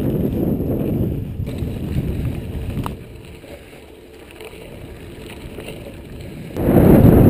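Wind buffeting the microphone of an action camera carried on a mountain bike riding off-road, a low rumbling noise. It dies down about three seconds in and comes back loud near the end, with a single click as it drops.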